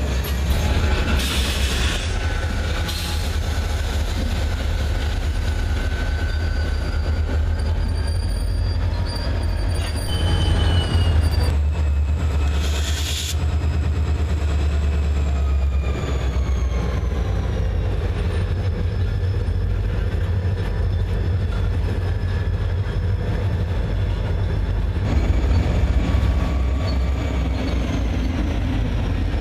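Freight train of tank cars passing close by, pulled by CSX diesel locomotives: a steady low rumble of wheels and engines, with thin drawn-out wheel squeals that slide slowly in pitch.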